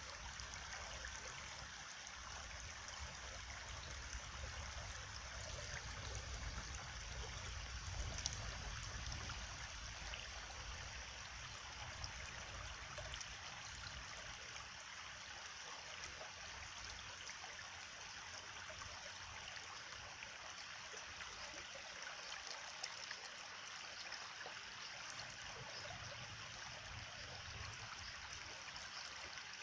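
A stream of water running steadily, a constant trickling rush with no breaks.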